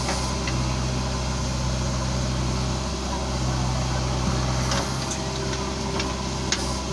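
Heavy diesel engine running steadily at a constant speed, with a few sharp clicks or knocks in the second half.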